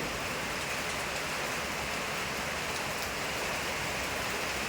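Rain falling steadily, an even hiss with a few faint sharp ticks of single drops.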